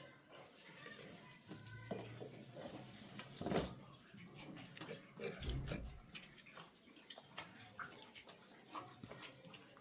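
Hand washing with water: faint splashing and scattered knocks of items being handled, with one louder knock about three and a half seconds in.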